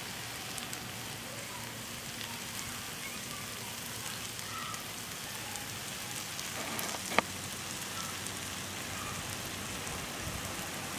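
Onion-tomato masala sizzling steadily on a hot iron dosa tawa, with one sharp click about seven seconds in.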